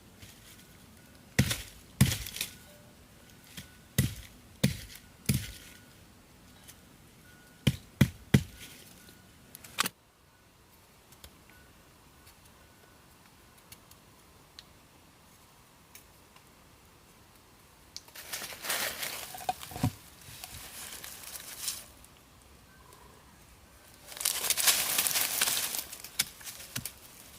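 A run of about ten sharp knocks, irregularly spaced over the first ten seconds, like chopping strikes. Later come two stretches of rustling or scraping, the second one louder.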